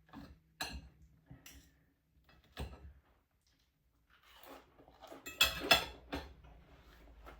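Cutlery clicking and clinking against a plate: a few light taps, a short pause, then a cluster of louder clinks about five and a half seconds in.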